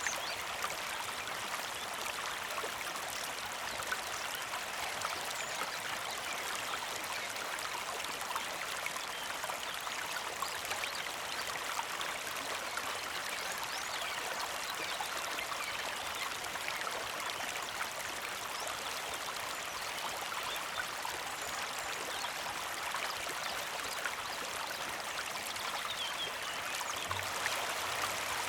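Small creek flowing: a steady trickling rush of water, without pause.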